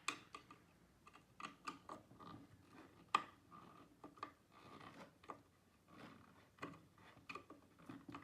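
Scattered small clicks and knocks of flat-pack engineered-wood bedside-table panels and fittings being handled and worked into place, with one sharper knock about three seconds in.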